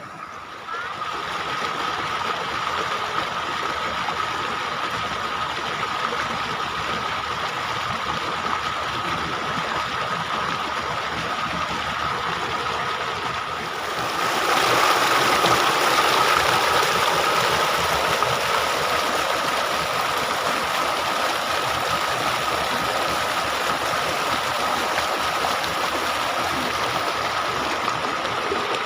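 Water in an irrigation canal rushing steadily, with a thin steady high whine running through it. It grows louder about halfway through.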